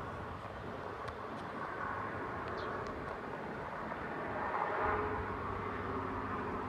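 Steady outdoor background noise, like distant traffic, with a few faint, short, high chirps.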